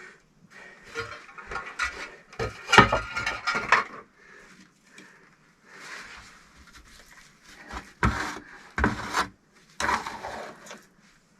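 Hard objects being handled: irregular knocks, clatter and scraping. The loudest knocks come about three seconds in, with two more strong ones around eight and nine seconds.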